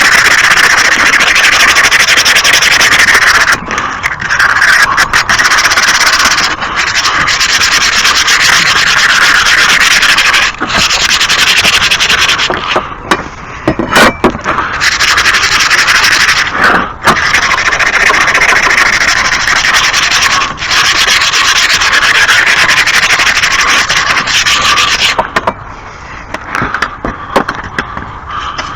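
Loud, continuous abrasive scraping of caked grass off a lawn mower, in long stretches of a few seconds broken by short pauses.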